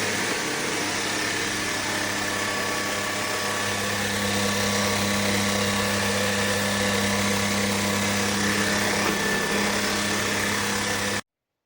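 Electric fan-motor appliance running steadily, a hum over a rush of air, which cuts off suddenly near the end.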